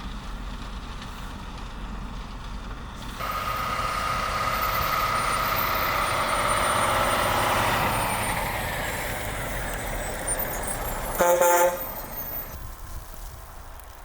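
A large truck passes close by, its engine and tyre noise swelling and then fading with a falling pitch. About eleven seconds in, a horn gives one short toot.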